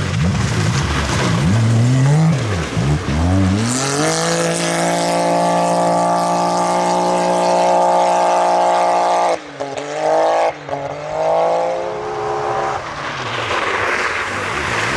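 Off-road rally car engine revving hard: its pitch swings up and down at first, then is held at one steady high pitch for about five seconds, cuts out briefly twice and picks up again.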